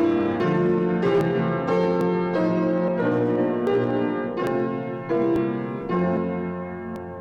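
Solo piano playing a slow offertory, chords struck about every half second and dying away, fading out near the end.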